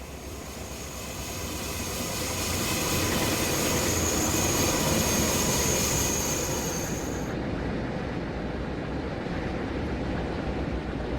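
Metra commuter train rumbling along the track at a station, growing louder over the first few seconds. A steady high-pitched squeal rides over the rumble and cuts off suddenly about seven seconds in, while the lower train noise carries on.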